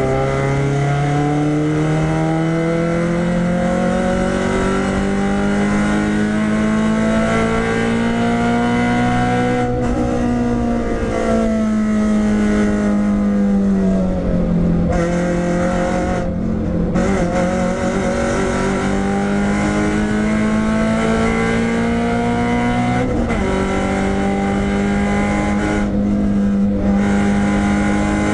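Renault Clio 172's 2.0-litre four-cylinder engine driven hard on a race track, heard from inside the stripped-out cabin. Its note climbs slowly through long pulls, broken by short lifts and drops in pitch about ten, fifteen and twenty-six seconds in as the driver brakes and changes gear.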